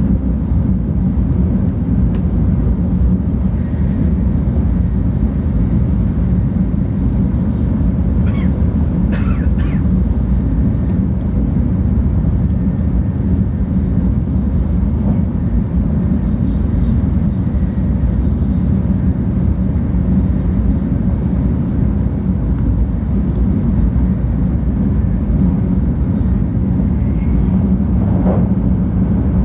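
Steady low rumble and hiss of a 700 series Shinkansen running at speed, heard from inside the passenger cabin. A couple of brief higher hisses sound about a third of the way through.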